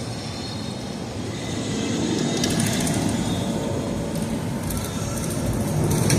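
A low, noisy rumble that grows louder, with short bursts of crackling clicks about two and a half seconds in and again near the end.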